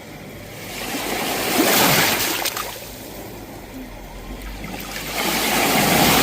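Sea waves breaking and washing up the shore, two waves swelling to a peak about four seconds apart with quieter wash between them.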